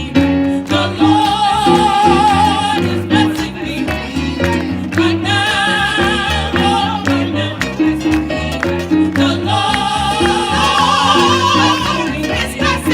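Gospel group singing with instrumental accompaniment: long held sung notes with a wavering vibrato over a repeating bass line and steady beat.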